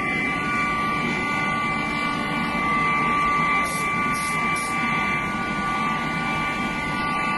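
Bell foundry's bronze-melting furnace running steadily: a constant rushing noise with a few steady high whistling tones, and three brief high hisses near the middle.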